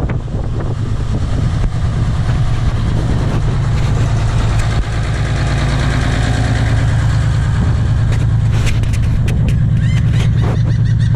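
Boat's inboard engine idling steadily just after start-up, a strong low hum from its wet exhaust, which is checked at this stage for cooling water flowing out as the sign the water pump is working. A few sharp clicks about eight and a half seconds in.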